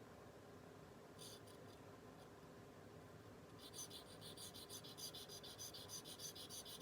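Steel blade of a dental sickle scaler scraping on a wet sharpening stone in short, rapid strokes: a few faint strokes about a second in, then a steady run of about four strokes a second from about halfway through, as the cutting edge is honed.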